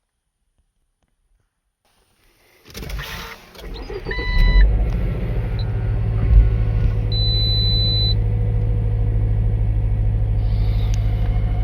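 Subaru Levorg VM4's 1.6-litre turbocharged flat-four being started from inside the cabin: silent for a couple of seconds, then cranking that catches and settles into a steady idle. Short electronic beeps sound as it fires, and a longer beep follows a few seconds later.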